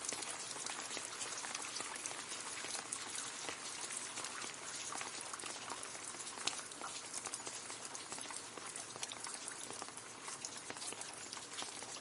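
Gentle rain falling on leaves: a steady patter of many separate drops ticking on foliage.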